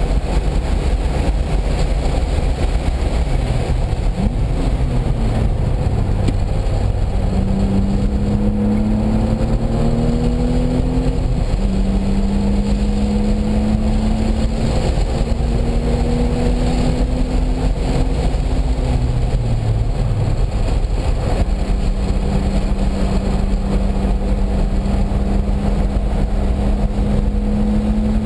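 Car engine at full track pace, pulling up through the gears: the engine note climbs in several long pulls and drops at each shift, over heavy wind and road noise.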